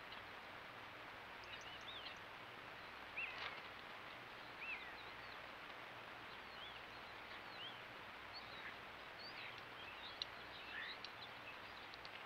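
Faint, scattered chirps and short whistles of small wild birds over a steady background hiss.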